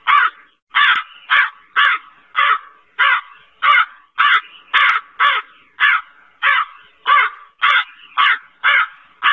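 Crow cawing: a rapid, evenly spaced series of short harsh caws, about two a second.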